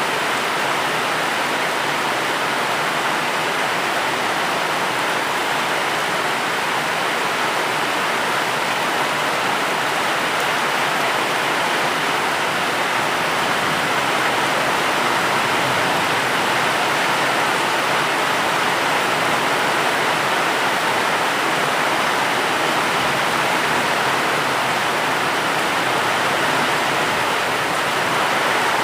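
Steady rain, a continuous even hiss with no separate drops, thunder or changes in level.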